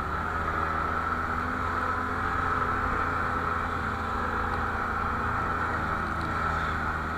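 Snowmobile engine running at a steady speed, its drone unchanging, until it cuts off abruptly at the very end.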